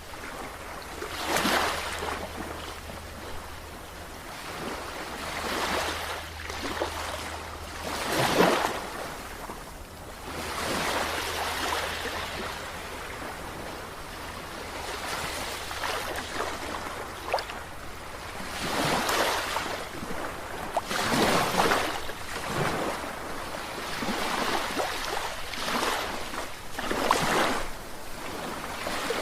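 Sea waves breaking and washing in irregular surges every few seconds, the loudest about eight seconds in, over a steady low hum.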